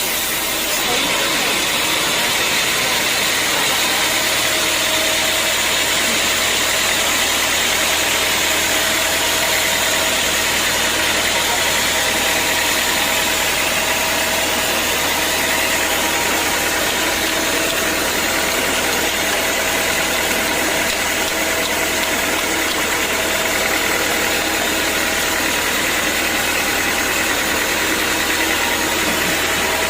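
Sawmill saw running steadily, cutting a teak log: a loud, even mechanical din with a hiss and a few steady tones. It steps up a little about a second in.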